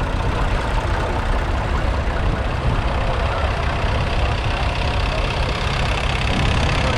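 Vintage tractor engines running steadily as the tractors parade past, a continuous low rumble.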